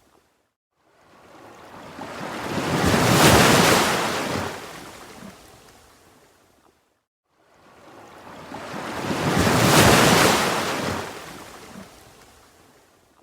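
Ocean waves breaking and washing back, two of them: each rises over two or three seconds to a loud crash of surf and then slowly fades, with a brief silence between them.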